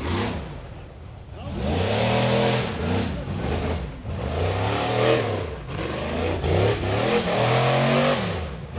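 Rock bouncer buggy's engine revving hard and backing off several times in quick succession, the pitch rising and falling with each blip of the throttle.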